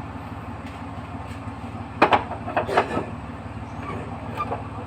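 A steady low hum of a running motor, with a quick run of sharp metal clanks and knocks about two to three seconds in, typical of tools striking truck parts.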